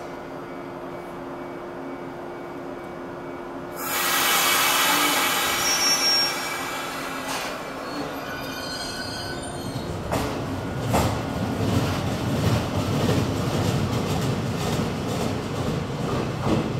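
Shinano Railway 115-series electric train pulling out. It starts with a steady low hum, then about four seconds in a loud hiss of compressed air fades over a few seconds. From about ten seconds in the train rumbles away, its wheels clicking over the rail joints.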